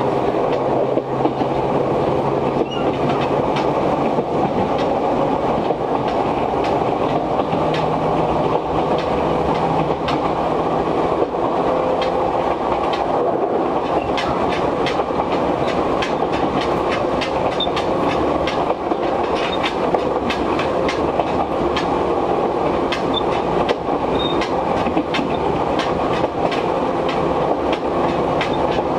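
Inside an Izuhakone Railway 1300-series electric train car as it runs: a steady rumble of wheels on the rails, with frequent irregular clicks and clanks from the gangway plates and air conditioning running hard.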